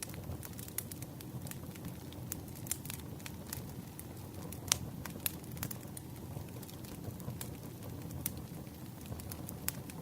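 Campfire burning: a steady low rumble of flames with irregular sharp pops and crackles of wood, one louder pop a little before halfway.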